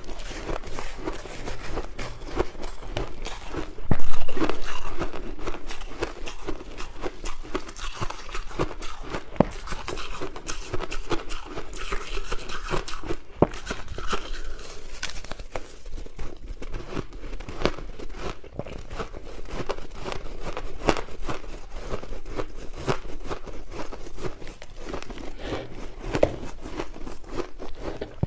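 Crushed ice being bitten and chewed close to the microphone: a dense, continuous run of crunches and cracking, with the loudest crunch about four seconds in.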